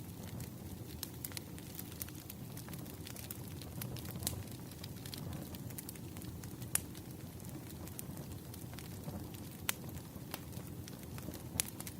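Bonfire crackling: a steady low rumble of burning wood with sharp pops scattered irregularly through it.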